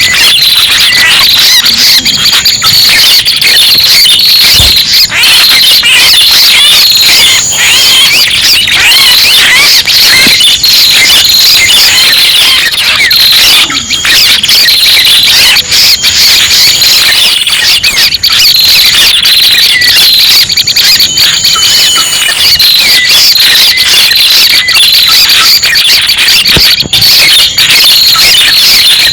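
Loud, dense, unbroken chirping and trilling of many small birds layered together, a looped lure recording of red-headed prenjak calls played to draw the birds in.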